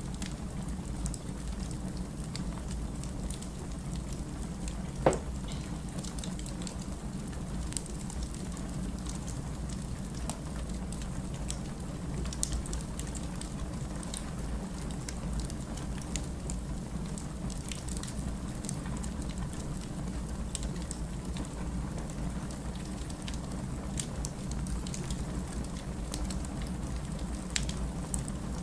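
Wood fire crackling, with scattered small pops over a steady low hum and one sharper pop about five seconds in.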